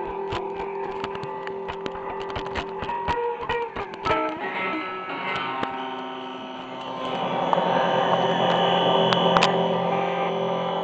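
Music: processed electric guitar with effects, held droning notes over clicking textures, swelling louder and fuller from about seven seconds in.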